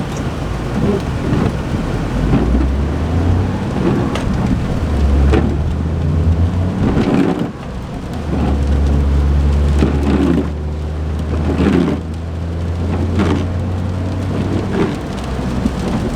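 Cabin noise of a 2008 Smart ForTwo under way. The 1-litre three-cylinder engine's drone rises and drops as the automated manual gearbox shifts through the gears, over a steady road and tyre rumble.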